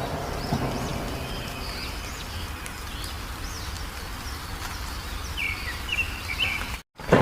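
Small wild birds giving short chirps and quick rising and falling notes over a steady low rumbling background noise. The sound cuts out for a moment near the end.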